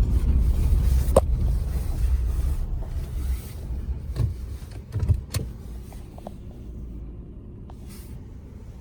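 A low, car-like rumble that fades away about halfway through, with a few sharp clicks or knocks.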